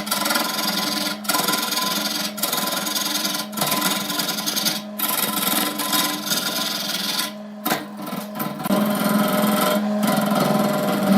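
Wood lathe running with a hand-held tool rubbing against the spinning wood-and-epoxy blank, over a steady motor hum. The rubbing comes in passes broken by short gaps about every second, with a longer pause about seven seconds in.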